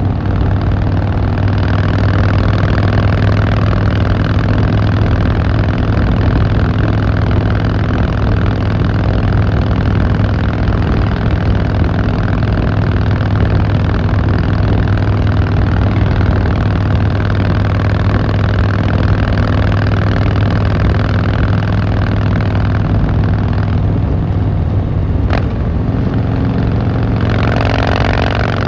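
Harley-Davidson Fat Boy Lo's air-cooled V-twin running steadily under way, with a deep, even engine note. There is a sharp click about 25 seconds in and a short rush of louder noise near the end.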